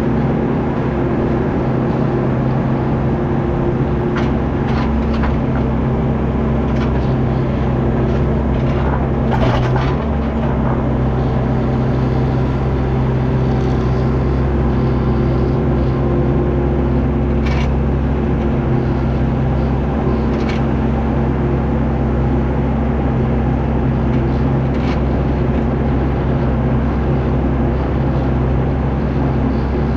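Tractor engine running at a steady speed, with a few short clanks and rattles over it.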